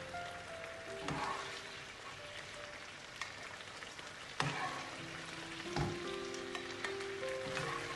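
Chicken pieces in BBQ sauce sizzling in a frying pan while being stirred, with a spatula knocking against the pan three times.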